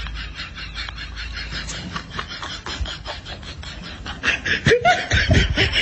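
A person laughing in quick breathy bursts, which grow louder about four seconds in, with a few short higher-pitched vocal sounds near the end.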